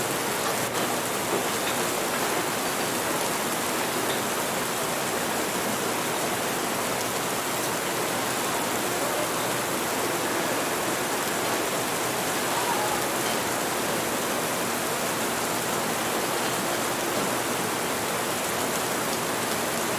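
Steady rain falling, heard as an even hiss with no break or change.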